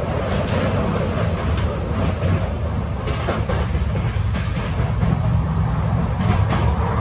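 Running noise inside a moving Indian Railways sleeper coach: a steady low rumble with a hiss over it, and now and then a faint click.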